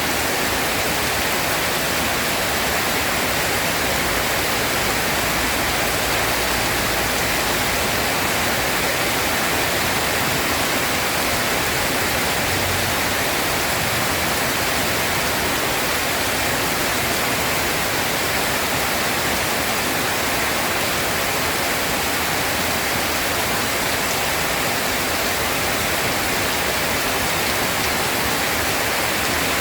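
Rain falling steadily, a dense, unbroken hiss with no change in level.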